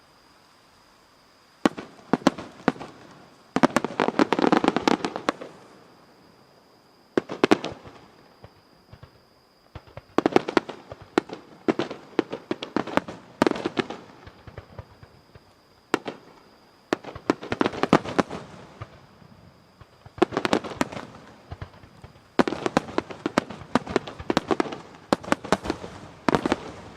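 Aerial fireworks bursting in repeated volleys of sharp bangs and crackles, many reports close together within each volley, with gaps of a second or two between volleys. The first bang comes about two seconds in.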